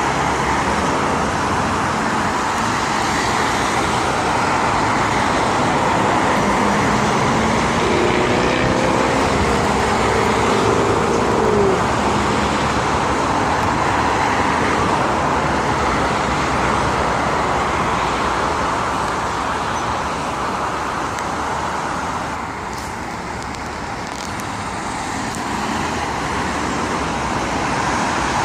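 Steady roadway traffic noise from passing vehicles, with a brief pitched engine tone from one vehicle about a third of the way through. The noise eases a little near the end.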